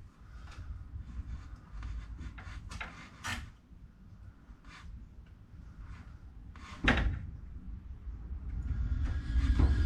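Scattered clicks, knocks and rattles of gear being handled, with one sharp knock about seven seconds in and a low rumble building near the end.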